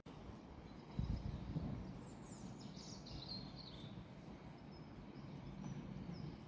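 Faint outdoor background rumble with small birds chirping, a descending run of twittering calls about two to three seconds in. A short thump about a second in.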